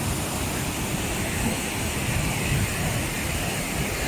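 Waterfall's falling water, a steady, even rush with a low rumble underneath.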